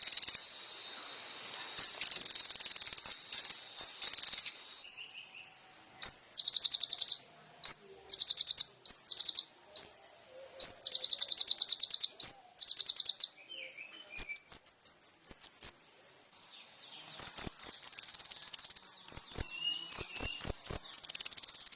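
Kolibri ninja (purple-throated sunbird) song: high-pitched, rapid trills and runs of sharp chirps, in repeated bursts of one to two seconds with short gaps.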